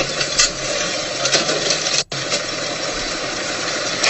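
A car engine running under a loud, steady hiss of noise, with a few short sharp clicks. The sound drops out for a split second about two seconds in.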